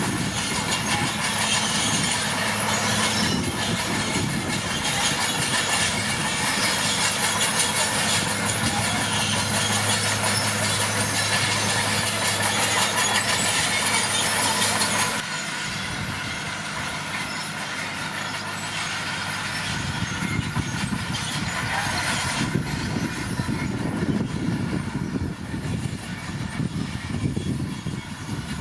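Komatsu D41P crawler bulldozer's diesel engine running with a steady drone. About halfway through the sound changes abruptly, becoming duller and quieter, then turns into a rougher, uneven rumble with clatter that builds again.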